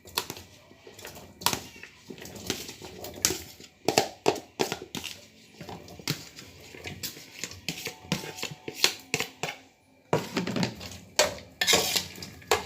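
Irregular knocks and clatter in a kitchen as chopped vegetables and utensils go into a cooking pot for soup.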